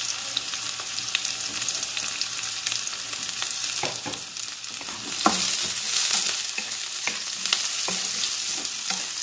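Carrot sticks, onion and garlic sizzling in hot oil in a wok, a steady hiss. In the second half a wooden spatula stirs them, with a few knocks and scrapes against the pan, and the sizzle grows louder.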